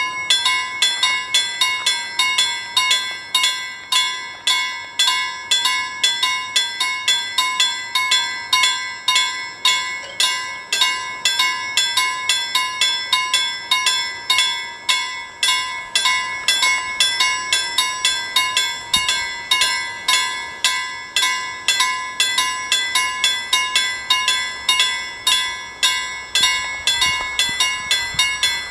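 Level crossing warning bell ringing rapidly and evenly, about three strokes a second. It starts abruptly and signals an approaching train.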